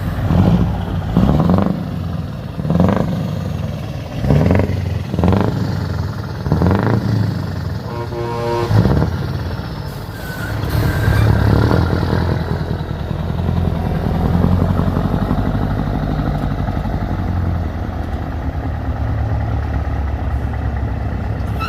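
Scania V8 truck engine revved in a quick series of short blips, then running with a steady low rumble.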